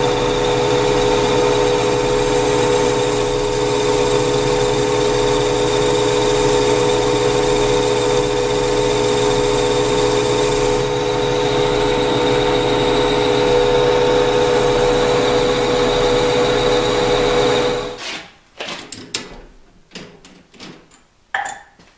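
An electric power tool motor running steadily at constant speed, then switching off about 18 seconds in, followed by a few scattered clicks and knocks.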